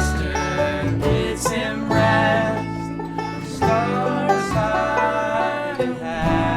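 A country-bluegrass band playing, with banjo, guitar and deep held bass notes.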